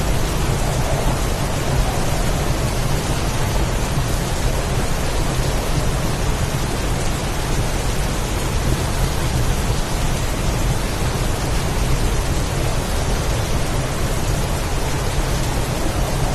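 Heavy storm rain pouring steadily, with a continuous low rumble underneath.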